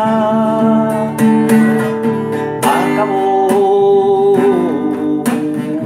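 Music: a slow song with strummed acoustic guitar and long held notes.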